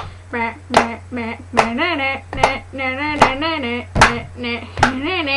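Regular claps or slaps, about one every 0.8 seconds, alternating with short wavering vocal noises whose pitch slides up and down, over a steady low electrical hum.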